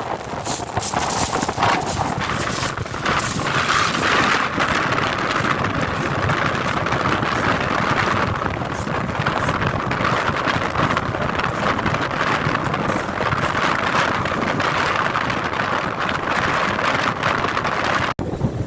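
Strong wind buffeting the microphone in a steady, gusty rush, cutting out for a moment just before the end.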